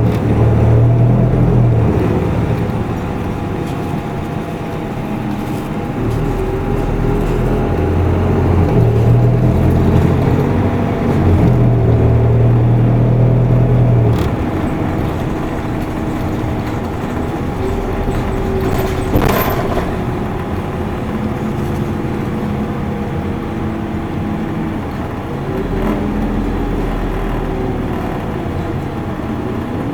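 Isuzu Erga Mio city bus heard from inside the cabin, its diesel engine pulling and easing off repeatedly so that its pitch climbs and drops, with a steady thin whine alongside. About 19 seconds in there is one short sharp knock or clack.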